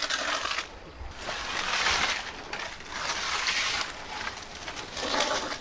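Mud being scraped off a paved street with a hand tool in four or five long, noisy strokes, one about every second or so.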